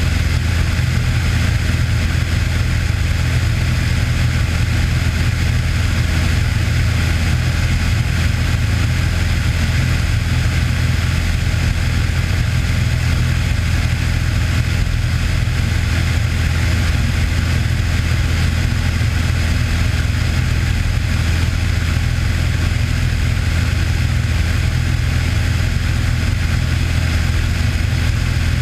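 Cessna 182's piston engine and propeller running at steady power, an even, unbroken drone.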